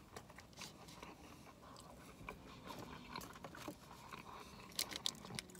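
A person chewing a mouthful of crinkle-cut french fries: soft, irregular wet mouth clicks and smacks, with a few sharper clicks near the end.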